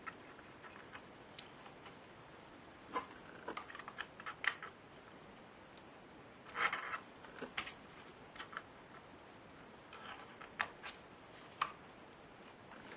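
Scattered light clicks and taps of small laptop parts being handled, in irregular clusters over a faint steady hiss.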